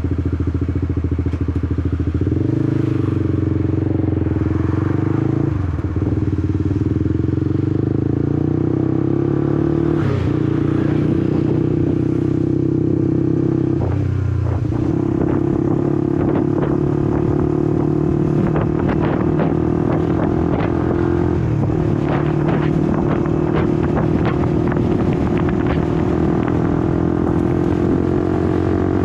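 Honda CBR150R's single-cylinder four-stroke engine running steadily under a rider, its note breaking briefly and shifting in pitch several times, with scattered light clicks and rattles later on.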